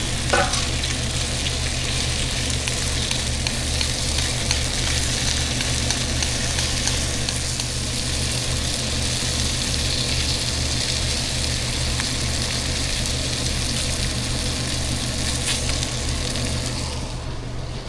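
Beef patties sizzling in a hot frying pan, a steady hiss that dies away near the end, over a constant low hum, with a couple of utensil clicks at the start.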